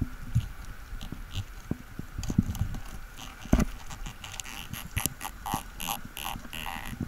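Underwater clicks and knocks as a diver's hand, speargun and fins bump and scrape against reef rock inside a crevice, the loudest knock about halfway through. In the second half a quick run of short rasping bursts, about three to four a second.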